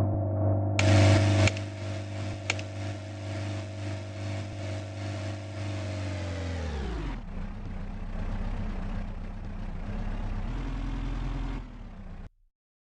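Moskvich 412's four-cylinder engine running steadily, with a short noisy burst about a second in. Around seven seconds in, the engine's pitch falls as it slows to a lower rumble, and the sound cuts off shortly before the end.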